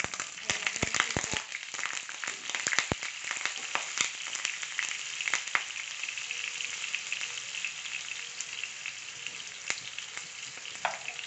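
Carrot and potato pieces frying in hot cooking oil in a pan: a burst of dense popping crackles for the first few seconds, settling into a steady sizzle with occasional pops.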